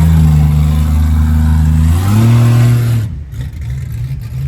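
A car engine revving: a loud steady note that rises in pitch about two seconds in, then drops away sharply a second later to a quieter rumble.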